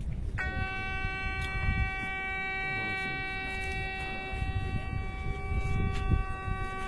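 Recorded shofar blast played back: one long, steady horn note that starts about half a second in and is held without a break.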